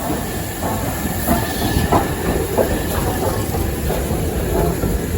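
BR Standard Class 5 steam locomotive and its train rolling past, wheels clattering over the rail joints with a steady low rumble.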